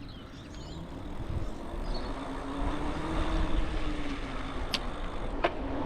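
Riding an e-bike: wind rushing over the microphone, with a steady low hum from the bike that drifts slightly in pitch, growing louder after about a second. Two short clicks come near the end.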